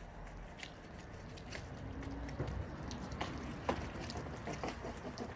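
Brush scrubbing along a gutter and its clips, with scattered scratchy clicks and a few sharper knocks.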